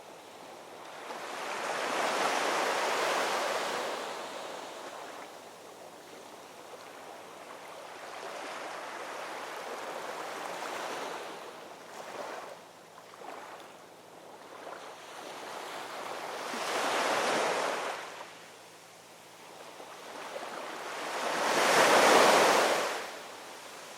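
Ocean waves breaking and washing up the shore, each swell of surf rising and fading over a few seconds. The three strongest break about 2, 16 and 21 seconds in, the last the loudest.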